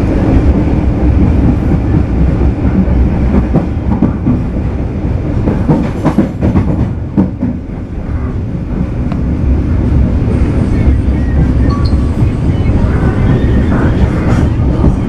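Passenger train running on the line, heard from inside an economy-class coach: a steady loud rumble of wheels on rails, with a run of clattering knocks about halfway through.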